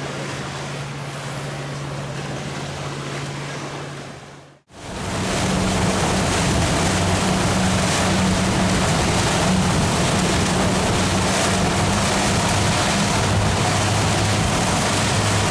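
Boat engines droning steadily over the rush of water and wind. A few seconds in the sound cuts off abruptly and comes back louder, with a heavier rush of water over the engines.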